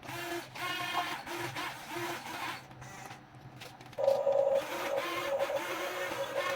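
Huina 1550 RC excavator's small electric motors and gearboxes whining in short runs, starting and stopping as it is worked, with a louder, steadier whine from about four seconds in.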